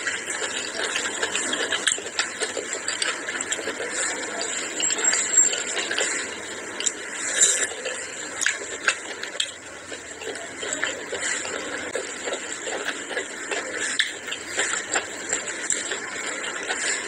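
Close-miked chewing and mouth sounds of someone eating rice and meat curry by hand: a continuous run of small clicks and smacks.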